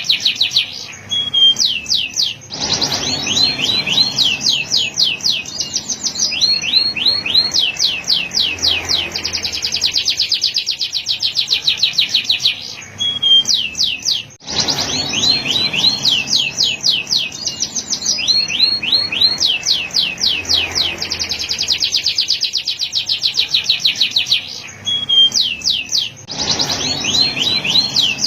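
Male canary singing a continuous song of rapid trilled rolls made of fast, repeated sweeping notes, broken by short pauses about every twelve seconds.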